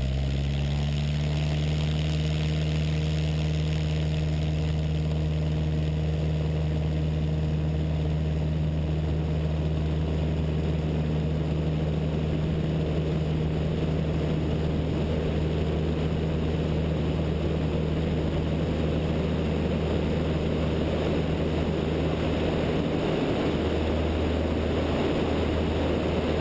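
Continental O-200 four-cylinder air-cooled engine and propeller of a Zenith light aircraft in flight, heard from a wingtip-mounted camera: a steady drone whose pitch climbs and settles right at the start, under wind rush that grows over the first several seconds.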